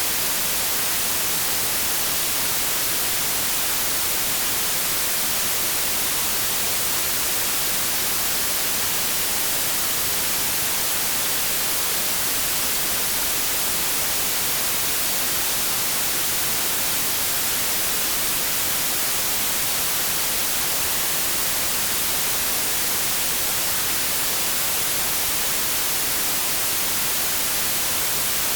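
Steady electronically generated white noise: an even, unbroken hiss with no change in level, strongest in the treble.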